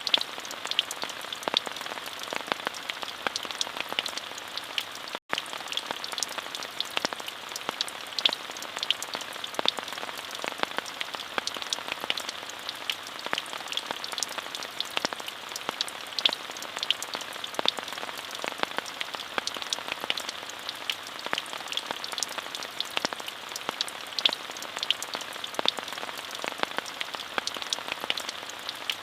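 Steady rainfall, a continuous hiss dense with sharp individual drop ticks. There is a momentary gap in the sound about five seconds in.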